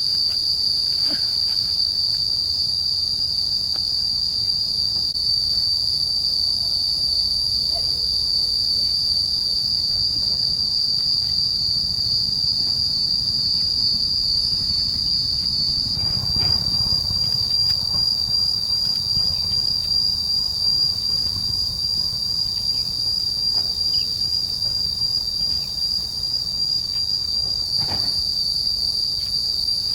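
Insect chorus giving a steady high-pitched buzz without letup, over a low rumble with a few faint clicks.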